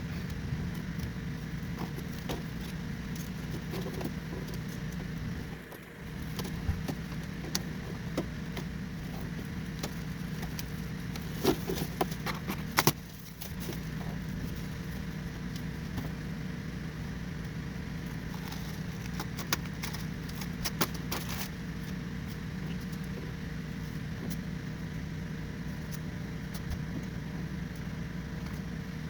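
Scattered metallic clinks and taps of hand tools working on an engine block, with a louder cluster of knocks about halfway through, over a steady low hum that briefly drops out twice.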